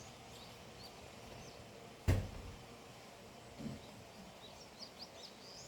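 Small birds chirping here and there, most often in the second half, over a steady outdoor hiss. A single sharp knock about two seconds in is the loudest sound.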